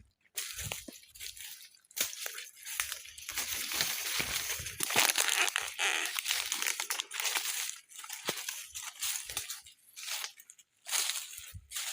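Footsteps crunching through dry leaves and twigs on a woodland floor: irregular rustling and crunching that comes and goes in uneven bursts, loudest around the middle.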